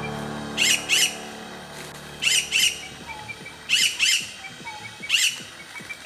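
A bird giving harsh squawking calls, mostly in quick pairs, repeating about every second and a half: three double calls, then a single one. Background music fades out in the first second or two.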